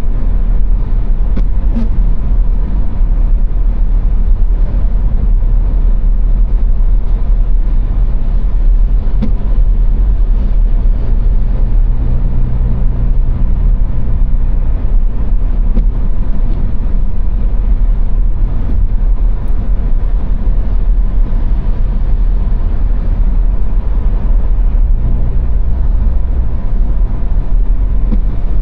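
Car driving on a motorway: a steady, loud low rumble of tyre, road and engine noise.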